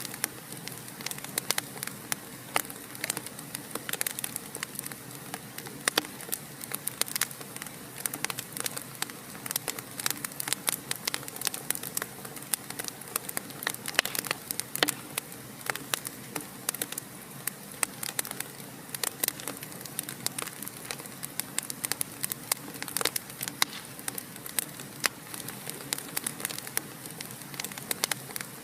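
Wood fire in a fireplace crackling steadily, with sharp pops and snaps several times a second over a soft even hiss.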